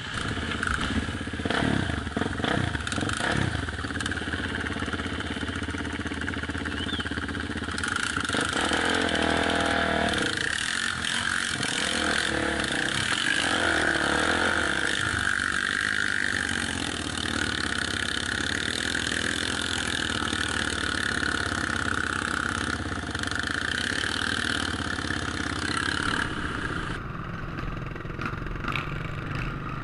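Off-road motorcycle engines running, with a few quick revs in the first few seconds and then a steadier drone.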